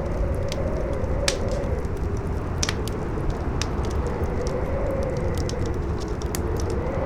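Campfire crackling with scattered sharp pops, over a howling wind whose pitch rises and falls slowly, with a low rumble underneath.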